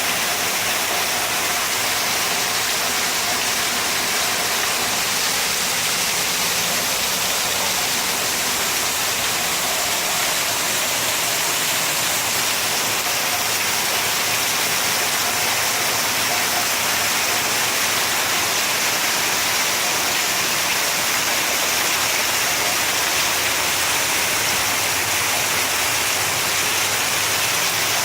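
Heavy rain, with rainwater cascading over an overflowing gutter and splashing down in a steady rush.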